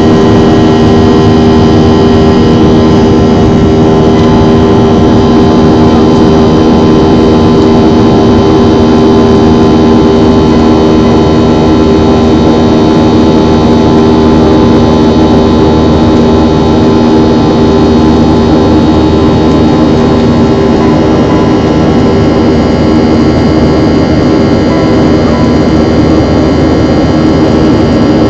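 Jet airliner's engines running at high power, loud and steady, with several steady whining tones over a continuous rush, as during the takeoff.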